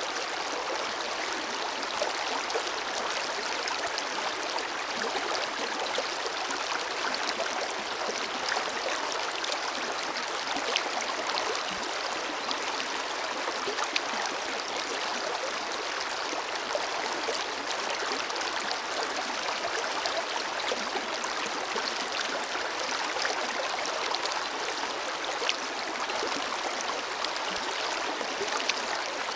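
Forest river flowing steadily, a continuous rush of water with small splashes and gurgles scattered through it.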